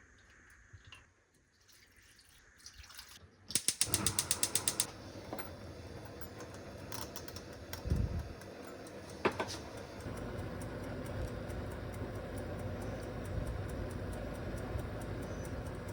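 A quick run of about a dozen sharp mechanical clicks, like a ratchet, followed a little later by a couple of single knocks and then a steady low rushing noise.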